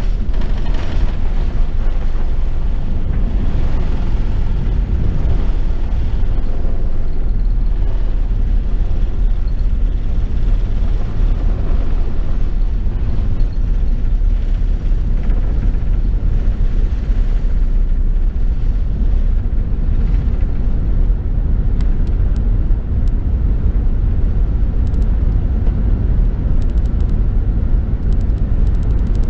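Airbus A380 heard from inside the cabin: a loud, steady low rumble of engines and airflow, with a few light clicks and rattles in the last third.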